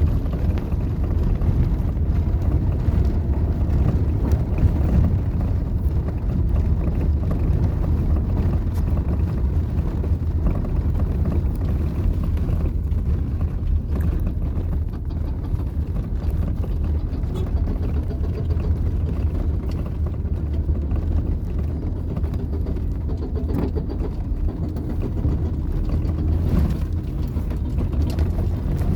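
Steady low rumble of a moving vehicle, engine and travel noise running evenly without a break.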